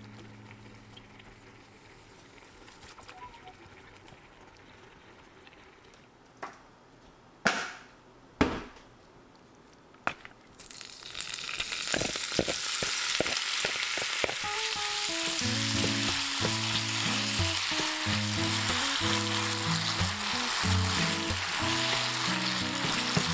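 A few sharp knocks, then julienned potatoes hitting hot oil in a frying pan about halfway through and sizzling steadily as they are stir-fried with a wooden spatula over high heat.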